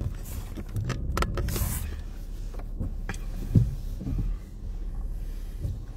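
Low steady rumble of a car engine idling, heard from inside the cabin, with a few short clicks and knocks about a second in from the wobbly phone mount being handled, and one short low thump about three and a half seconds in.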